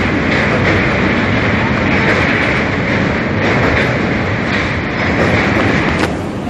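Train running across a steel truss bridge: a loud, steady rumble and clatter of wheels on the rails.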